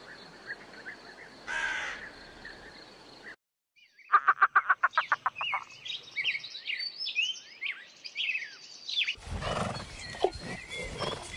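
Three short animal clips in a row: a crow gives one caw about a second and a half in, over faint hiss. After a short gap, a toco toucan's rapid run of croaking pulses, followed by several seconds of quick high chirps and whistles. Near the end, rough noisy outdoor sound with a few short knocks, from horses in a pasture.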